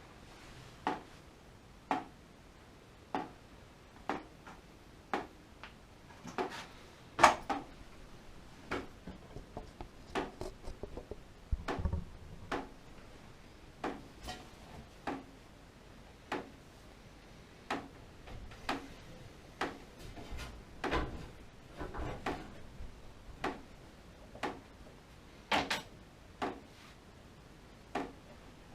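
Sharp clicks repeating about once a second, with irregular knocks and clatter of small hard objects being handled, loudest in scattered clusters.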